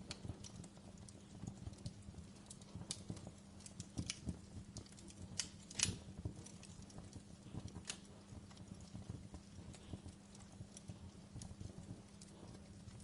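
Logs burning in a fireplace, crackling with irregular pops and snaps, the loudest about six seconds in, over a steady low hum.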